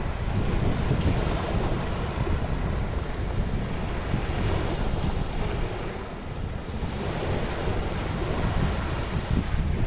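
Sea surf breaking and washing on a beach, a steady rushing noise that swells and eases, with wind buffeting the microphone.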